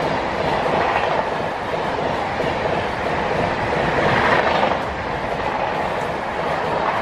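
Mumbai Rajdhani Express passenger train running past at high speed: a steady rush of wheels on the track that swells and eases.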